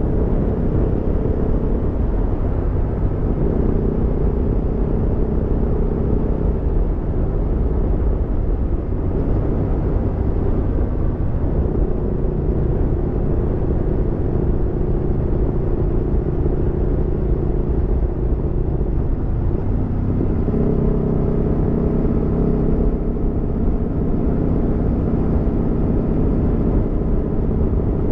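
Aprilia Tuono V4's V4 engine running under way on a ride, a steady engine note that shifts to a new pitch a few times as the speed changes, over a constant low rumble of wind and road.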